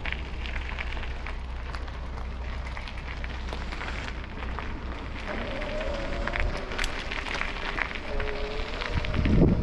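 Wind rumbling on a moving camera microphone over a steady crackle of tyres on a rough towpath, with a louder low rumble swelling just before the end.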